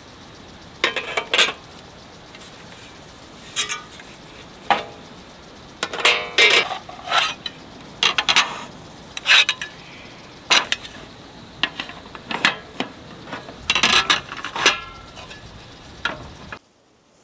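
Metal camp gear and tableware being handled and set down, an irregular string of clinks and clanks, some ringing briefly. The sound cuts off suddenly near the end.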